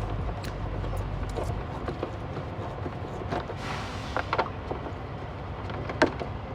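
Scattered clicks and knocks of hand tools and parts being handled while bolts are undone, over a low rumble that fades out a couple of seconds in. There is a brief rustle about halfway through and a sharper click near the end.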